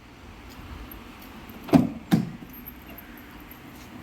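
Two sharp knocks a little under half a second apart over a steady low hiss.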